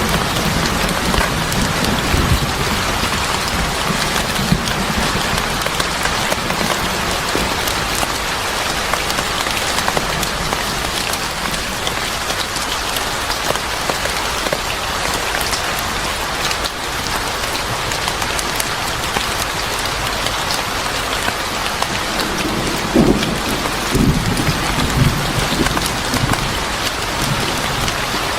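Steady heavy rain, a dense patter of drops hitting surfaces. Low rumbles swell under it near the start and again about 23 seconds in.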